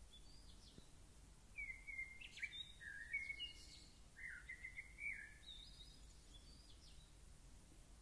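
A bird singing: a phrase of quick, varied chirping notes beginning about a second and a half in and lasting some four seconds, then a few fainter high notes, over a faint low background rumble.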